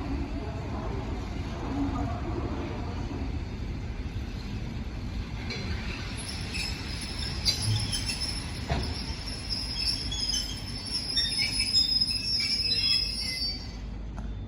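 Passing passenger train, its steel wheels squealing against the rails over a low rolling rumble. The high squeal sets in about halfway through, wavers, and stops shortly before the end.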